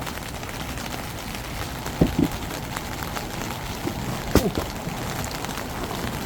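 Rain falling on the roof of a TPU camping shelter: a steady hiss full of scattered drop ticks, with a few louder knocks about two seconds in and again near four and a half seconds.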